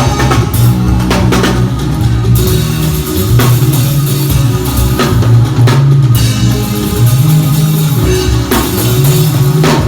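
Live band playing at a sound check: drum kit with bass drum and cymbal hits over sustained bass notes that change pitch every second or so, and guitar.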